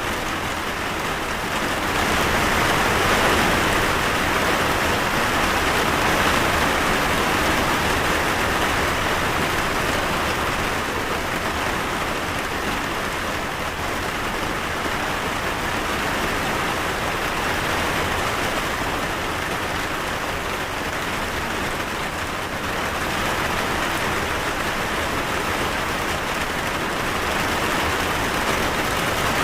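Steady rain falling, an even dense hiss of drops hitting surfaces, swelling slightly a couple of seconds in.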